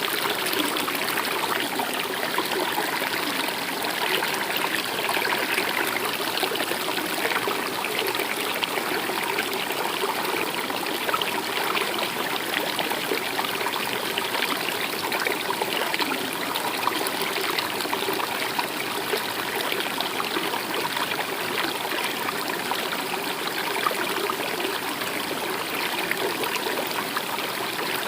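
A stream running steadily, a constant trickle and babble of water with no change.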